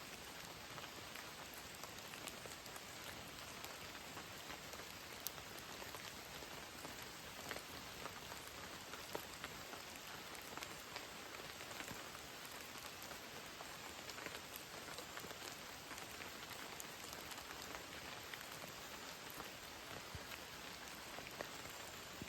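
Steady rain falling, with scattered sharper drop impacts ticking close by.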